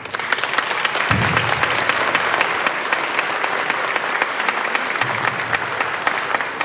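Audience applause, a dense patter of many hands clapping, swelling in at once and thinning a little near the end.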